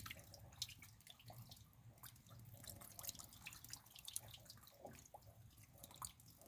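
Rain dripping faintly: scattered, irregular drops ticking over a steady low hum.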